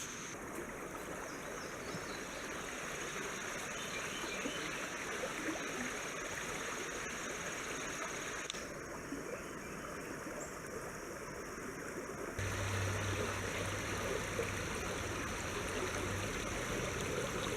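Flowing stream water rushing steadily. About twelve seconds in the sound changes suddenly and grows louder, with a low hum underneath.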